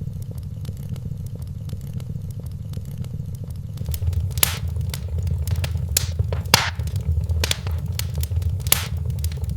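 Wood fire burning in a fireplace: a steady low rumble of flames with irregular crackles and sharp pops. The pops grow louder and more frequent about halfway through.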